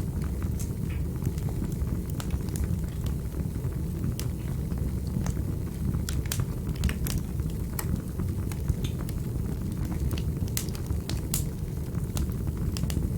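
Wood fire burning in a fireplace: a steady low rumble of flames with irregular sharp crackles and pops from the burning logs, several clustered around the middle and near the end.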